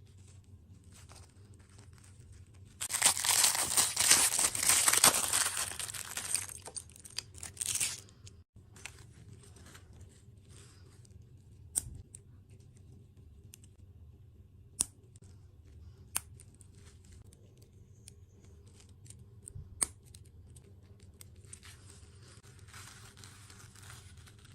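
Plastic food packaging crinkling and being torn open: one loud crackling stretch of several seconds, a few sharp clicks, then softer crinkling near the end.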